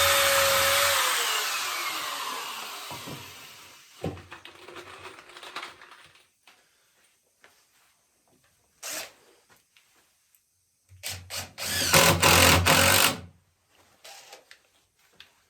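Electric hand drill boring into walnut: it runs at speed, then winds down after about a second, followed by a knock. A brief burst comes near the middle, then a few short starts and a second run of about two seconds that stops suddenly.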